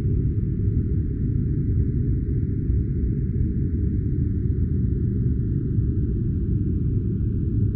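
Steady deep noise of a sleep-sound noise track, a constant muffled hiss with everything above a low pitch filtered away and no change in level.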